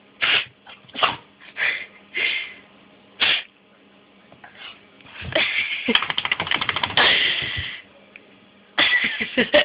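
A dog sneezing over and over: about five short, sharp sneezes in the first three and a half seconds, then a longer run of rapid pulsing sneezes and snorts lasting a couple of seconds, and another burst near the end.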